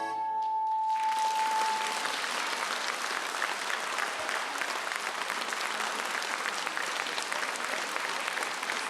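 An audience applauding steadily, starting about a second in, while the last held note of the song dies away.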